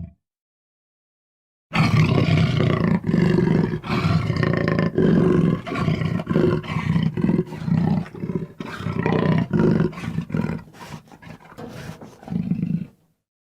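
Animal roar sound effect: a long run of rough, growling roars in repeated surges with short breaks, starting after nearly two seconds of silence and fading out near the end.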